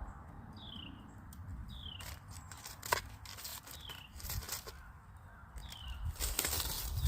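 A bird repeats a short whistled note that slides down in pitch, every one to two seconds. Under it are low rumble, a few sharp clicks with the loudest about three seconds in, and rustling noise that grows near the end.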